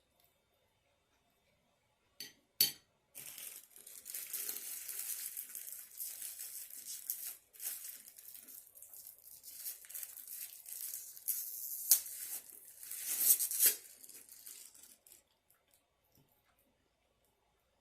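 Takeout food packaging being handled and opened: two sharp clicks, then about twelve seconds of irregular crinkling and tearing, with a few louder crackles near the end before it dies away.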